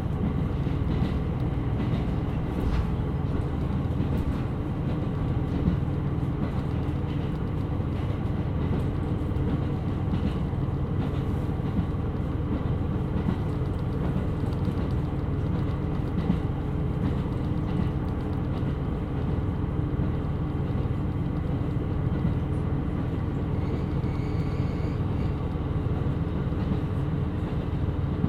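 KiHa 127 series diesel railcar running along the line: a steady drone of its engine with the rumble of wheels on rail, and a few faint clicks.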